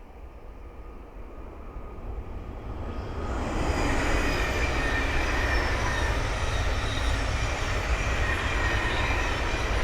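Thameslink Class 700 electric multiple unit passing: the rumble and rush of its wheels on the rails grows over the first three seconds or so, then holds loud and steady, with a faint high whine running through it.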